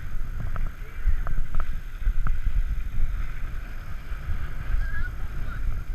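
Low rumble of wind buffeting the microphone, with scattered light clicks and knocks.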